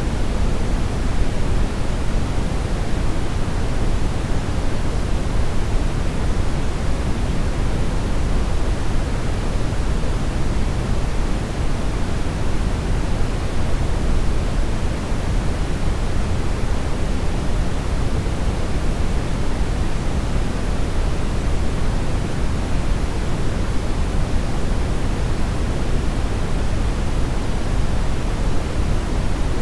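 Steady brown noise: an even, unchanging hiss and rumble, strongest in the deep lows and thinning toward the highs.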